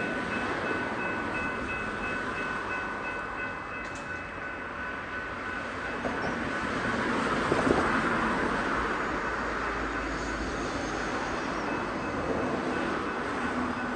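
Train passing over a level crossing: the rush and rumble of the wheels on the rails swells about halfway through, with a few knocks. The crossing's warning bell rings with steady high tones through the first half, then is lost under the train.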